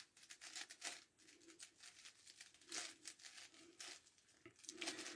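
Faint, irregular clicking and scraping of a 9x9x9 Rubik's cube's plastic layers being turned by hand.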